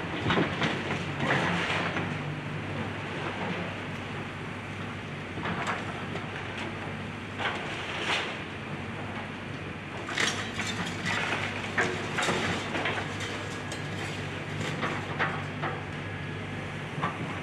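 Diesel engine of a demolition excavator running steadily, with about ten irregular clanks and crunches of the machine working house debris, the strongest near the start and around ten to twelve seconds in.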